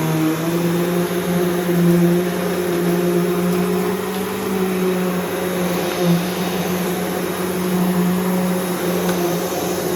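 Bissell PowerGroom Multi-Cyclonic upright vacuum cleaner running at full speed, its motor humming at a steady pitch over a rush of airflow, with a short bump about six seconds in.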